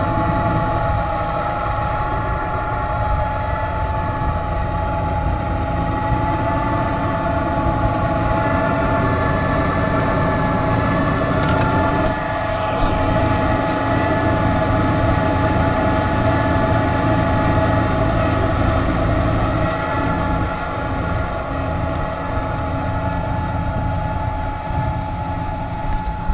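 Massey Ferguson 5455 tractor's engine running steadily under load while pulling a six-row maize seed drill, a continuous low rumble with a steady high whine over it.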